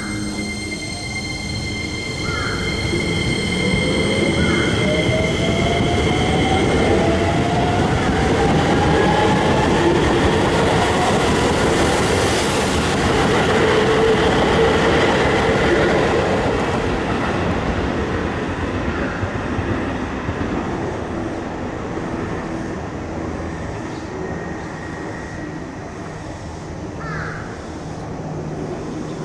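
Keisei Main Line electric train running through the station. Wheels on rail build up to their loudest around the middle and then ease off, and an electric-motor whine rises steadily in pitch over several seconds as it gets under way.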